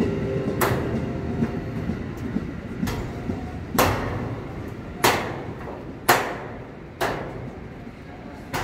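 KRL Commuter Line electric train rumbling as it pulls away, fading steadily. A steady low tone dies away within the first two seconds, and sharp metallic knocks ring out about once a second throughout.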